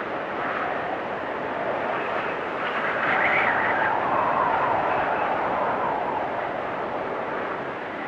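Wind storm blowing and whistling, swelling into a stronger gust about three seconds in and easing off again after about six seconds.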